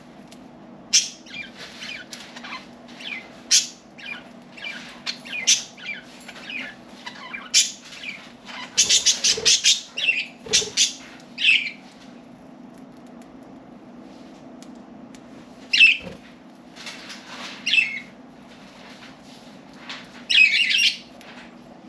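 Pet budgerigars chirping and chattering in quick, scattered bursts, with fluttering wings. The calls come thickest a little before the middle, fall away for a few seconds, then pick up again in short bursts.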